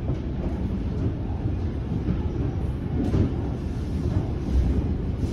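Steady low rumble of a moving suburban electric train heard from inside the carriage: wheels running on the rails and the car body vibrating, with a brief louder clatter about three seconds in.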